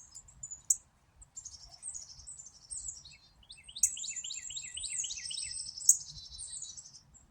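Several small songbirds calling and chattering together in high chirps, with a quick run of about eight downward-sliding notes in the middle. A single sharp click comes near the end and is the loudest sound.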